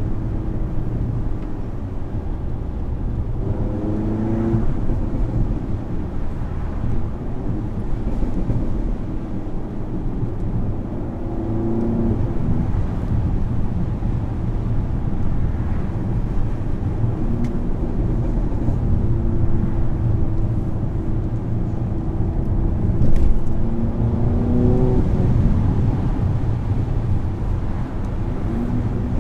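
Audi A3 2.0T turbocharged four-cylinder running through a Milltek non-resonated catback and APR downpipe, with a deep exhaust drone. The engine note climbs three times as it is revved or accelerated. There is one sharp pop about two-thirds of the way through.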